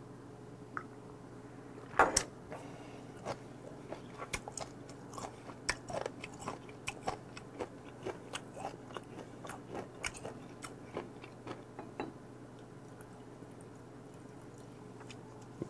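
A person chewing a mouthful of food close to the microphone: irregular wet smacks and mouth clicks, about two a second, the loudest about two seconds in.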